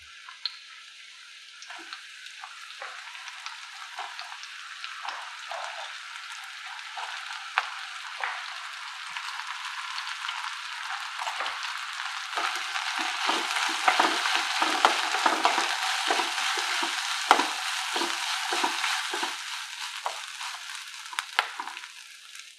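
Sliced onion, green chillies, almonds and cashews sizzling in hot oil in a kadai, growing louder as the pan heats. In the second half a wooden spatula stirs them, and its scrapes and taps on the pan come through the sizzle.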